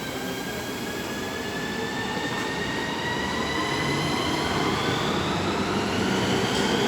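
Electric train accelerating, its traction motors whining in several tones that climb steadily in pitch as it gathers speed, over the rumble of the train, growing louder.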